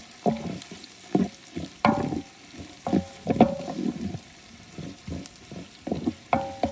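A utensil stirring and scraping in a metal cooking pot, with irregular knocks against the pot, the louder ones leaving a short metallic ring.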